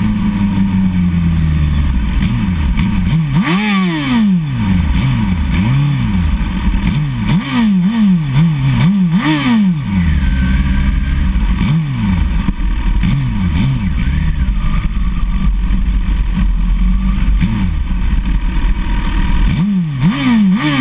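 Suzuki SRAD sport motorcycle engine revving up and down over and over while riding, its pitch climbing and dropping about once a second, over a steady low rumble.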